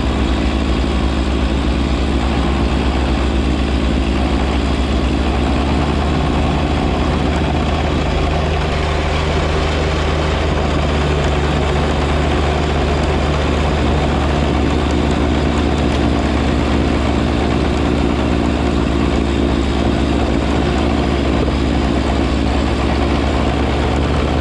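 John Deere 1025R compact tractor's three-cylinder diesel running steadily, driving a 54-inch front snow blower, with a steady low hum; a further steady tone joins about six seconds in.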